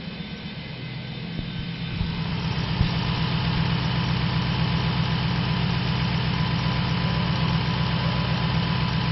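2007 Dodge Ram 1500's 5.7-litre Hemi V8 idling steadily, growing louder about two seconds in, with a few sharp clicks early on.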